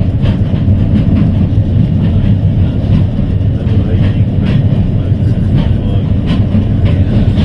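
Heritage electric tram running along the line, heard from inside the car: a steady low rumble of wheels on rail, with faint scattered clicks.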